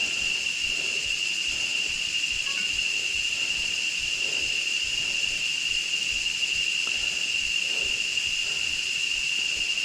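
Insect chorus in tropical forest: a steady, shrill, high-pitched drone held on one pitch, with a fainter hiss above it.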